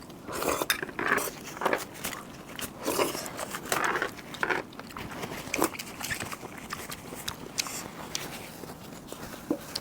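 A person eating close to the microphone: irregular chewing and biting, with short crackling clicks between bites.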